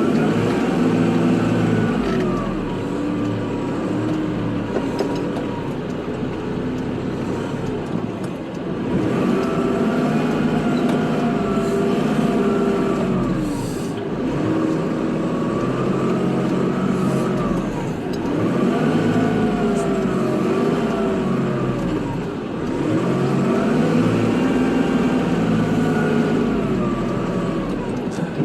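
Kubota tractor's diesel engine running under load while plowing snow, its revs climbing and dropping again in repeated cycles every four to five seconds.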